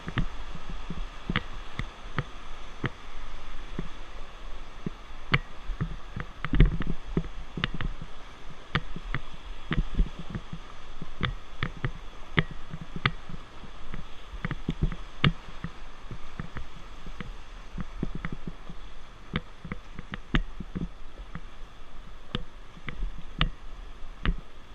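Handling noise from a camera held on a river raft: a low rumble with frequent irregular knocks and clicks, a few each second.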